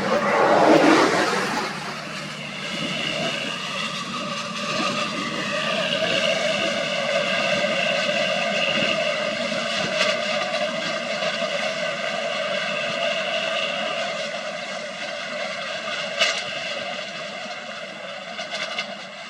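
A motor vehicle engine running with a steady droning whine that rises a little in pitch and then holds, fading near the end. It opens with a loud rush of noise lasting about two seconds.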